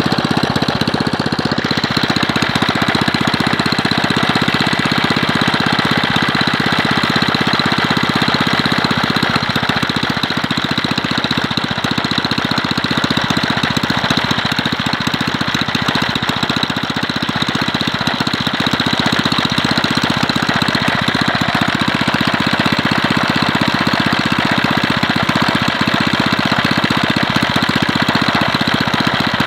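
Villiers Mark 10 single-cylinder two-stroke petrol engine running steadily under a light load, driving a sanding grinder, with a fast even firing beat. The engine is old and a bit worn out.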